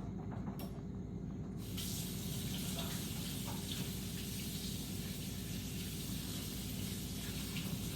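Kitchen faucet turned on a little under two seconds in, water running steadily into the sink, over a low steady hum.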